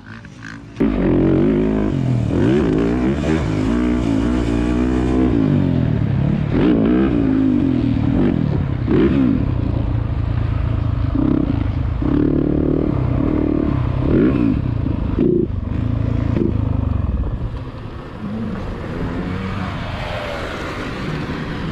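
A dirt bike engine revving up and down as it is ridden. The sound drops off to a lower level near the end: the engine bogging, which the rider blames on the bike running out of gas.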